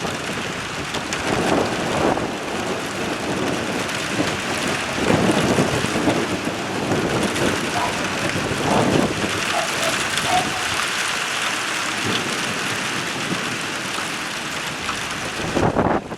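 Rain falling steadily in a thunderstorm, with several rolls of thunder swelling up through it.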